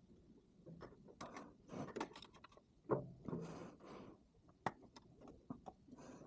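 Small metal parts and hand tools clicking and scraping in hand work on the engine's ignition parts, with short rubbing strokes and a louder knock about three seconds in.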